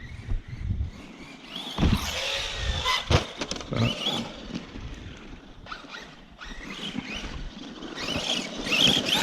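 Arrma Kraton 4S RC truck being driven in short bursts: its brushless motor and drivetrain whine, rising and falling in pitch as it speeds up and slows, over a haze of tyre noise, with a few sharp knocks.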